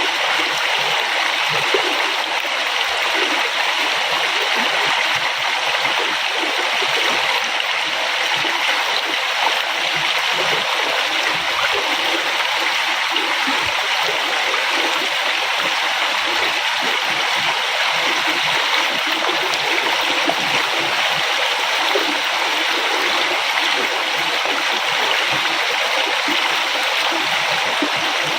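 Flowing river: a steady rush of water with small splashes and gurgles over rocks.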